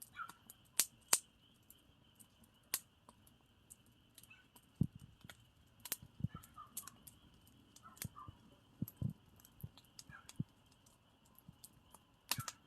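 Campfire crackling, with irregular sharp pops and snaps, a few of them louder, over a faint steady high-pitched hiss.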